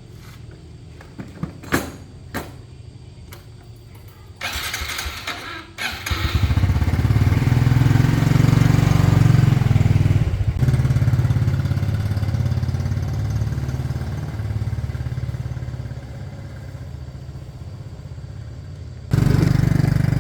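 A few light knocks, then a vehicle engine comes in loudly about six seconds in and keeps running with a deep, steady note that slowly eases off. The level jumps abruptly near the end.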